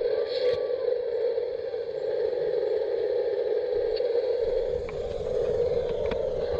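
A garden-scale model locomotive running along the track with a steady hum, and a few light clicks from its wheels over the rail joints.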